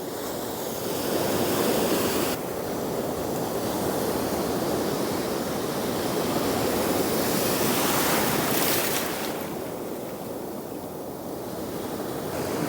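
Ocean surf breaking and washing up the beach, swelling and easing as the waves come in, with some wind on the microphone.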